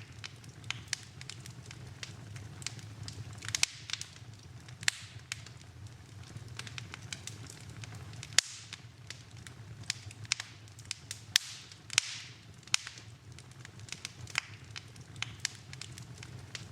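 Wood fire in a fireplace crackling: irregular sharp pops and snaps over a low, steady background. One louder snap comes about eight seconds in.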